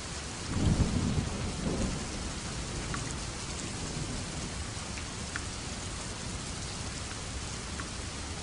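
Steady rain falling, with a roll of thunder rumbling low from about half a second in and fading out after about two seconds. Now and then a single drop ticks close by.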